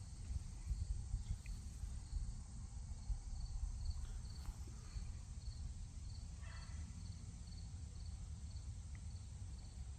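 A cricket chirping in a steady, high, even pulse, about two to three chirps a second, over a low outdoor rumble.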